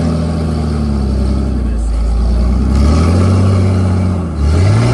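A 4x4 off-road rig's engine revving up and down in several surges as it crawls over rocks.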